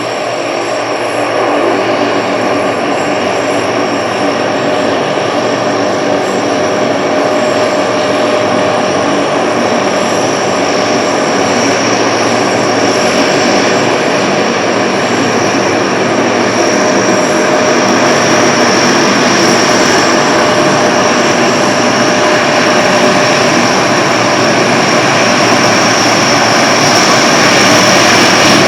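Turboprop engines of a military transport plane running steadily with a high whine, slowly growing louder.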